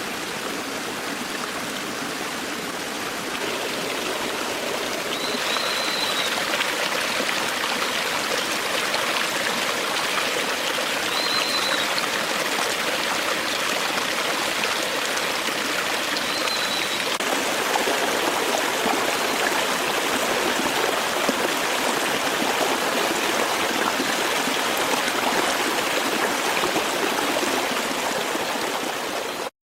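Forest stream flowing in a steady rush of water, with a short high chirp about every five or six seconds.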